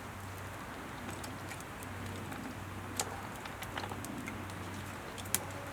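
Wood fire crackling, with scattered small pops and two sharper snaps: one about three seconds in and one near the end.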